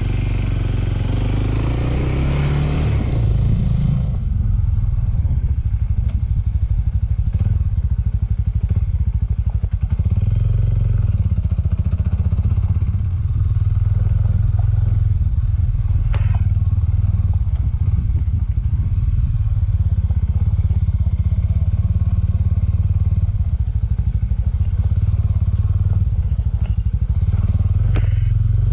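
Suzuki Thunder 250 motorcycle engine pulling away, its pitch rising step by step through the first few seconds as it accelerates. It then runs steadily at riding speed, with a couple of brief knocks along the way.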